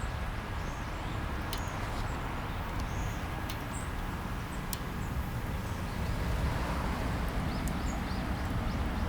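Steady outdoor background noise with scattered short, high bird chirps and a few sharp crackles from a small wood fire burning in a compact twig stove.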